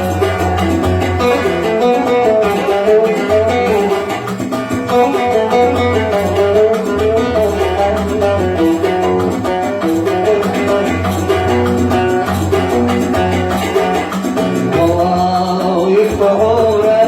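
Oud playing a Yemeni Sanaani melody, plucked in a continuous run of notes over a steady low accompaniment.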